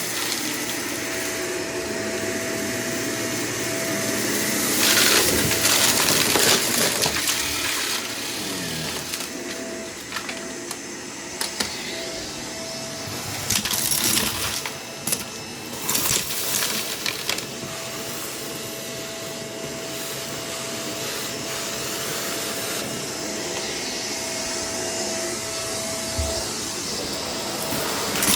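Vacuum cleaner running, its motor giving a steady whine, with bursts of clicking and rattling around the middle as mess is sucked up.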